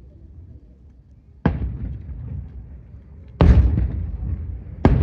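Fireworks shells bursting overhead: three sharp booms, about a second and a half apart, the middle one loudest, each followed by a rolling echo.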